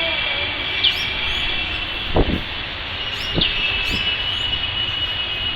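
Small birds giving short, sharp chirps every second or two over a steady high-pitched drone, with a low rumble and a couple of dull thumps about two and three seconds in.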